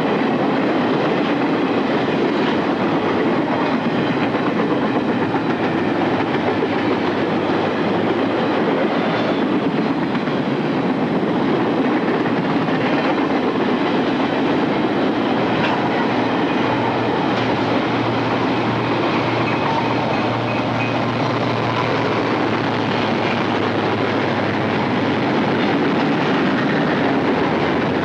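A train rolling past on the rails, a steady noise of wheels on track with a few faint knocks; a low steady hum joins in from about the middle to near the end.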